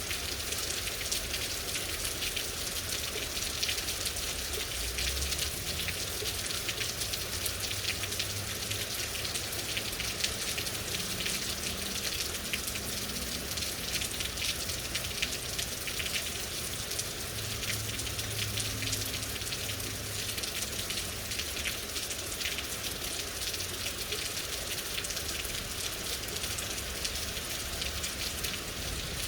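Steady rain falling, a dense hiss packed with fine drop ticks, with a soft low rumble now and then.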